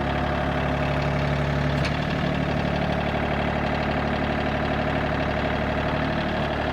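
Tractor engine running steadily, with a slight change in its note about two seconds in.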